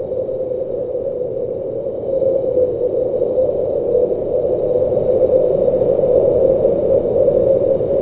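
Steady blizzard wind, a continuous low rushing noise that swells slightly about two seconds in.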